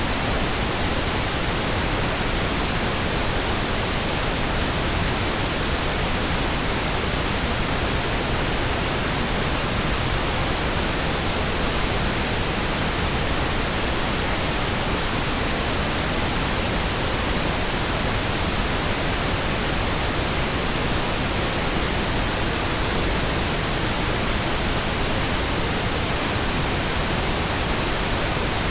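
Synthesized pink noise: a smooth, steady hiss across the whole range, with no changes or interruptions.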